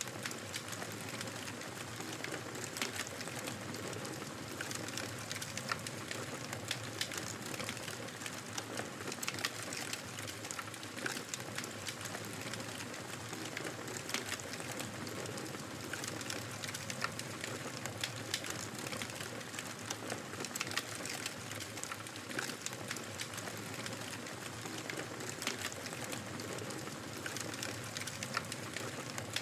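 Wood fire crackling in a fireplace: a steady low hiss of burning with frequent small irregular pops and snaps.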